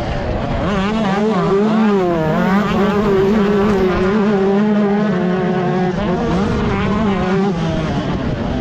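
125cc two-stroke motocross bike engine revving hard, its pitch climbing and dropping again and again as the throttle is worked and the gears change.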